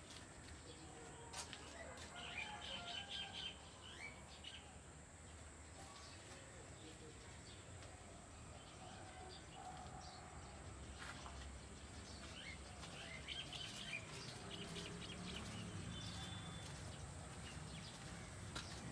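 Faint bird chirps: a cluster of short high calls about two seconds in and more near the end, over a low steady background rumble.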